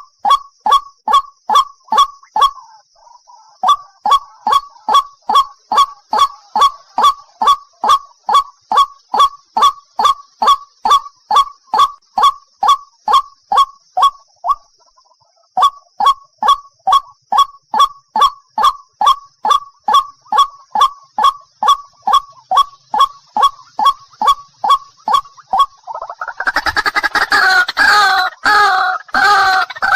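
White-breasted waterhen calling: a long run of short notes repeated evenly, about three a second, with a brief pause midway. Near the end it breaks into a louder, fuller run of harsh calls.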